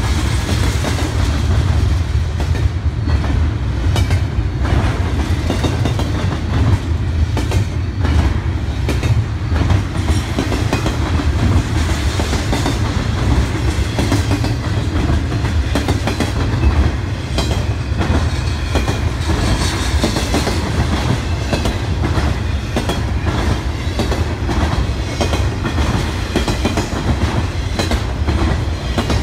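Double-stack intermodal freight train's container well cars rolling past close by: a steady low rumble with many quick clicks and knocks from the wheels on the rails.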